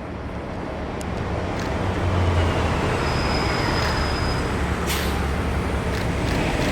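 Transit bus engine rumbling low as the bus passes, growing louder over the first couple of seconds and then holding steady, with a brief thin high squeal in the middle and a sharp click about five seconds in.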